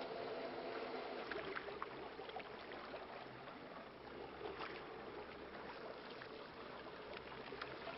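Small fishing boat running at trolling speed: a steady motor hum with a wash of water noise and a few faint scattered ticks.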